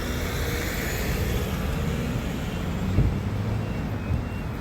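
Road vehicle engine and tyre noise at a level crossing: a steady low rumble that swells early on, with a short thump about three seconds in.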